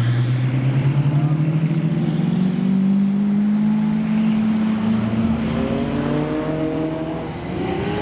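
Supercar engine pulling away under throttle, its note climbing steadily in pitch; about five seconds in a second, higher rising engine note takes over.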